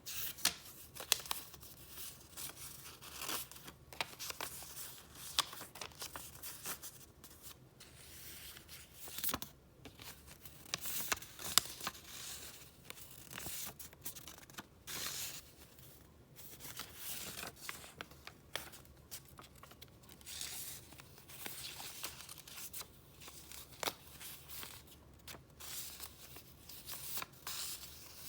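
Paper rustling and crinkling as sheets are handled and turned, in irregular bursts with sharp little clicks and taps, the loudest about a second in and near the middle.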